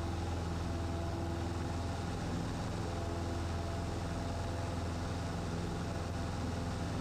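Cessna 150's Continental O-200 four-cylinder engine and propeller running steadily at flight power, a constant low drone heard inside the cockpit.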